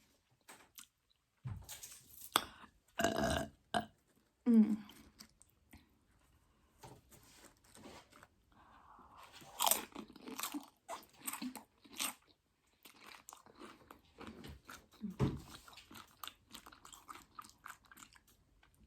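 Close-miked chewing and crunching of Doritos loaded nachos, with many short crisp crackles. A few brief vocal sounds, falling in pitch, come between bites.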